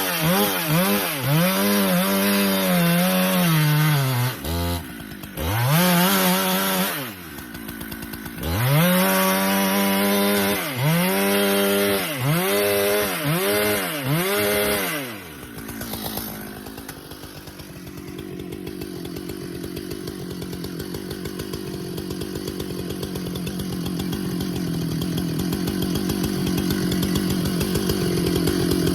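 Husqvarna chainsaw noodling a large pecan round along the grain. The engine rises and sags in pitch about once a second under load for roughly the first half, with two short pauses. It then settles to a steady idle that grows louder toward the end.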